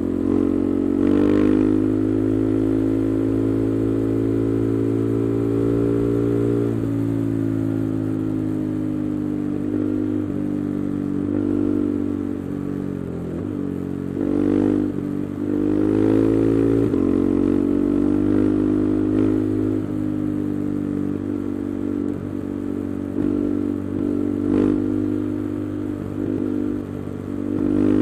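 KTM 390 Adventure's single-cylinder engine, with an aftermarket Arrow exhaust and the resonator removed, running under way. Its note holds steady for stretches and drops in pitch several times, with a few brief knocks.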